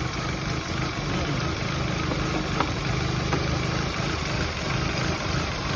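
Nissan Almera Classic's 1.6-litre QG16DE four-cylinder petrol engine idling steadily.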